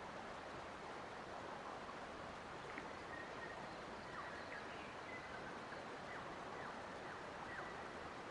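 Faint forest ambience: a steady hiss with birds giving short, high chirps and quick falling notes from about three seconds in.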